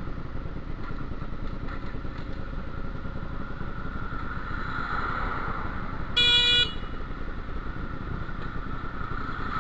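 Motorcycle running on the road with steady engine and wind noise. About six seconds in, a vehicle horn sounds once, a loud half-second blast.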